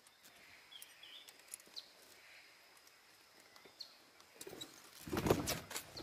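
Quiet outdoor ambience with a few short, scattered bird chirps, and a louder burst of clicks and noise about five seconds in.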